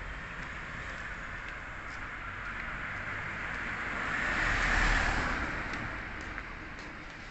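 A road vehicle passing by: a steady rush of engine and tyre noise that swells to its loudest about five seconds in, then fades away.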